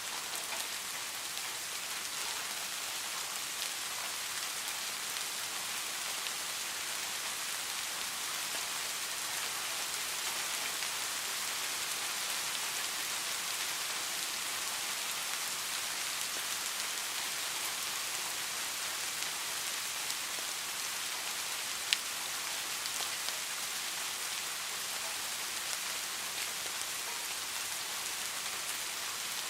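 Steady rain falling, a dense even hiss of drops, with one sharp tick about three quarters of the way through.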